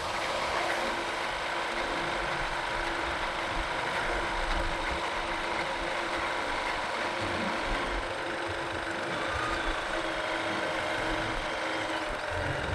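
Motorcycle running steadily on the road: a constant engine hum with a few steady tones over road and traffic noise.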